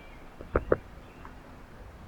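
Three quick knocks about half a second in, a faint one and then two loud ones close together, at a backyard bird feeder where birds and squirrels are feeding.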